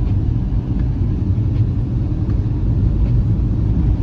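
Steady low rumble of a small Fiat car driving on a snow-covered road, heard from inside the cabin: engine and tyre noise.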